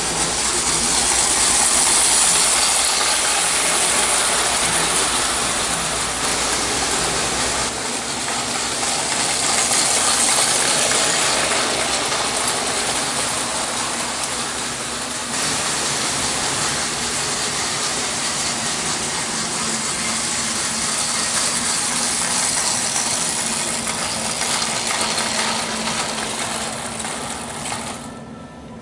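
Prewar Märklin O-gauge North British Atlantic, its high-voltage AC motor running on about 55 volts, with gears and wheels on the tinplate track making a dense, steady mechanical rattle. The sound changes abruptly about eight and fifteen seconds in and fades near the end.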